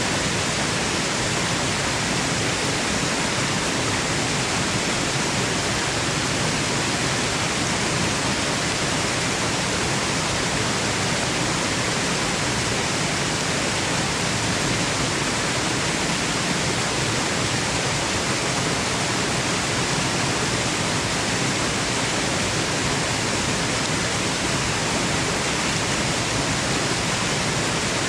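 Waterfall rushing: a steady, unbroken hiss of falling water, even from low to high pitches with no changes.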